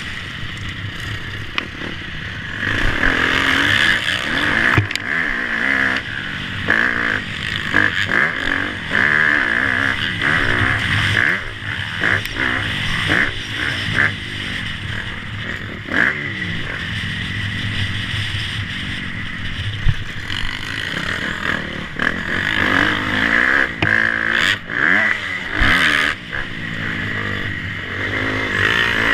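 Motocross motorcycle engines revving up and down repeatedly, their pitch rising and falling, with a few sharp knocks scattered through.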